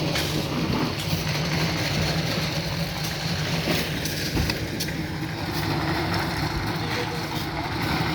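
An engine running steadily at a constant speed, with a few sharp knocks.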